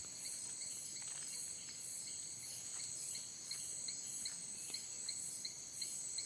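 Insect chorus, like crickets: a steady high shrill with a regular chirp repeating a few times a second.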